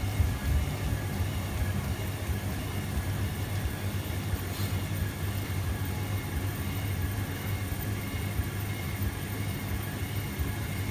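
Hoover Keymatic De Luxe 3243H washing machine running in its cool-down and drain stage: a steady low mechanical hum, with a couple of knocks at the very start.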